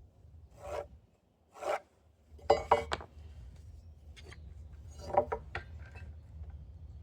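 Workshop handling sounds: a few short knocks and scrapes of boards and tools being moved on a workbench, in two small clusters, over a low steady hum that comes in a couple of seconds in.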